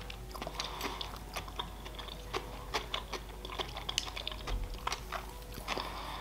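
A person chewing a mouthful of sushi roll close to the microphone: a stream of small, irregular mouth clicks.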